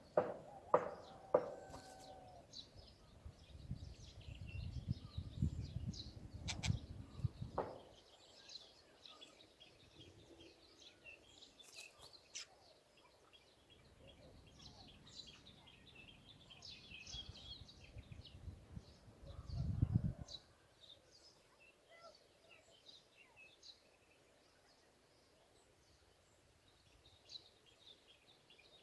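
Small birds chirping with many short, high calls throughout, while low rumbles on the microphone come twice, the longer one in the first quarter and a shorter one about two-thirds of the way in.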